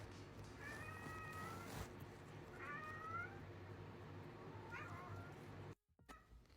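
A cat meowing three times, short high-pitched calls a second or two apart, the second rising slightly in pitch.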